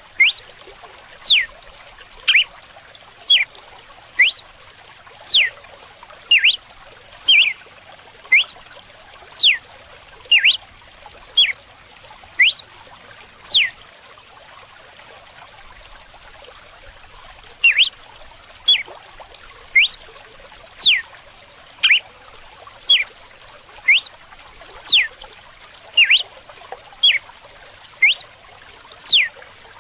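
Red-cowled cardinal singing its whip-like 'açoite' song: short sharp whistled notes about once a second, many sweeping steeply down from high, with a break of a few seconds midway. Running water trickles steadily underneath.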